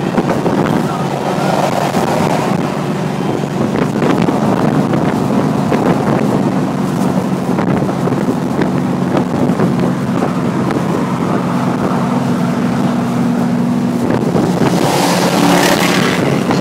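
Pontiac Trans Am's V8 running steadily at cruising speed, heard inside the cabin over road and wind noise. Near the end a louder rush of noise comes as a pickup truck passes close alongside.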